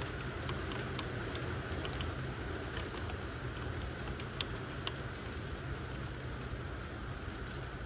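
Steady rain falling, with single drops tapping sharply on a nearby surface now and then in the first five seconds, over a low steady rumble.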